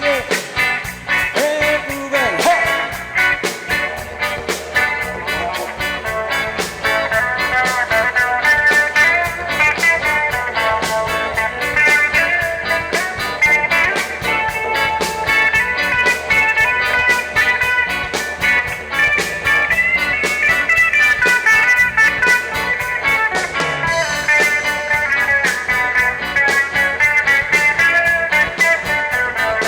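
Live reggae band playing an instrumental stretch with guitar over a steady drum beat.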